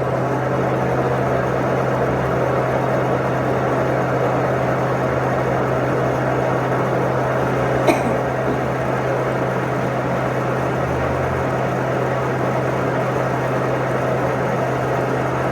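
A steady mechanical running noise with a low hum, and one sharp click about eight seconds in.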